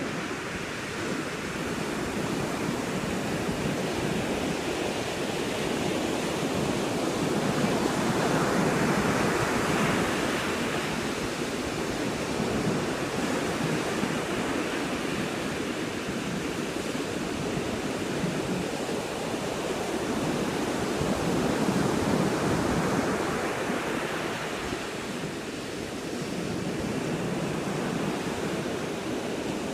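Ocean surf washing steadily, swelling louder twice as waves break.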